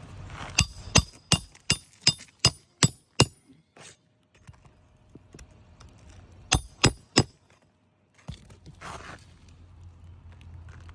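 Hammer blows ringing on metal, eight in quick succession, then a pause and three more. A brief scrape follows near the end.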